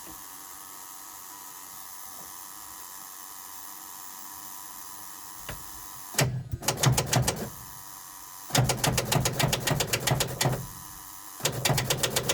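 The diesel engine of a 1985 Ford CL9000 cab-over semi being cranked by its starter in three short tries, a fast, even chugging each time, without firing. This is a cold start without starting fluid, on weak batteries, after two or three years of sitting.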